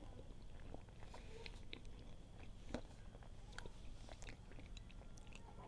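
Faint close-up eating sounds: chewing, with scattered small clicks.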